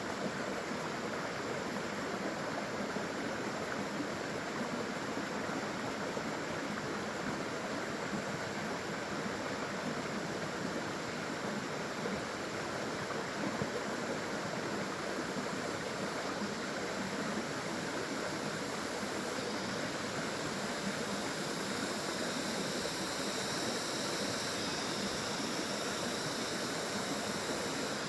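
Small waterfall and flowing stream water, a steady rushing and splashing without breaks.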